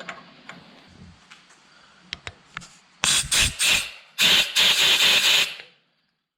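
A few small clicks and taps, then loud hissing blasts from a pressurised nozzle: several short ones about three seconds in and one longer blast of over a second, cut off sharply.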